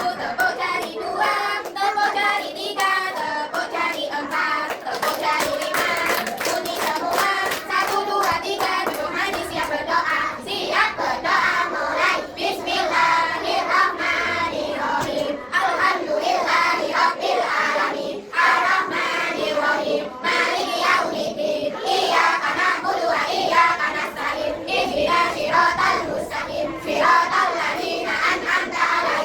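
Children singing a song while clapping their hands along with it.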